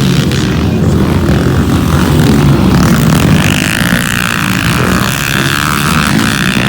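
Motocross bike engines running on the track under a heavy, continuous rumble. About halfway in, a higher engine whine rises over it.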